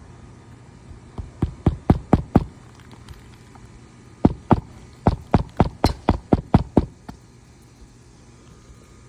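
Hammer side-driving roofing nails into an asphalt shingle: a run of about six quick strikes, a pause of under two seconds, then about ten more, roughly four a second.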